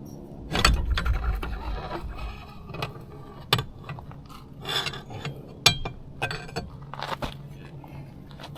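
Metal scraping and clunking as the lower unit of a 25 hp Yamaha outboard is worked loose and drawn off the midsection: a long scraping rumble about half a second in, then several sharp knocks and clicks.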